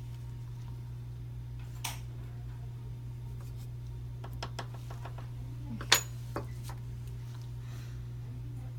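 A few small, sharp clicks and clinks of dental hand instruments against hard surfaces at a work bench, the loudest about six seconds in, over a steady low hum.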